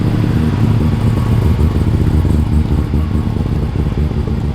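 Rotary-engined car's exhaust rumbling at low revs as it rolls past, with a choppy, lumpy beat.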